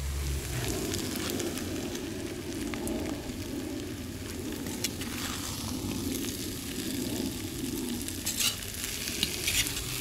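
Stew of meat, potatoes and vegetables sizzling in a cast-iron kazan over a fire, while a metal ladle scoops it out, scraping the pot, with a few sharp clinks of metal on metal near the end.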